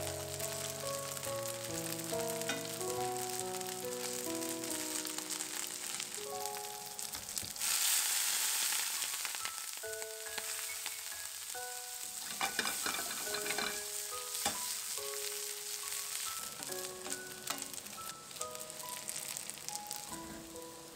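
Pumpkin ricotta gnocchi sizzling in brown butter in a stainless steel frying pan, loudest about a third of the way in, with a few clicks from the pan and utensils in the middle. Soft mallet-percussion background music plays over it.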